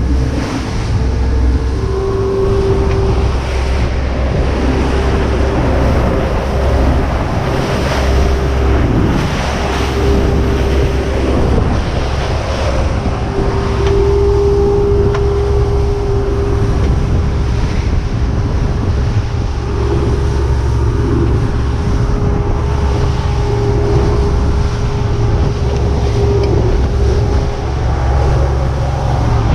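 Strong wind buffeting the microphone over waves slapping a fishing boat in rough water, with a steady mid-pitched hum underneath that swells and fades.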